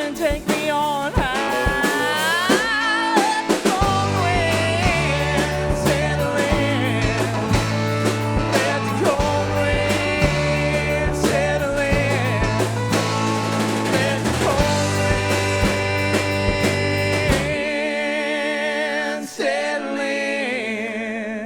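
A live country-rock band plays an instrumental guitar break, the lead line full of bends and vibrato over drums. A low bass line comes in about four seconds in and drops out with the drums near the end, leaving the last chords ringing as the song finishes.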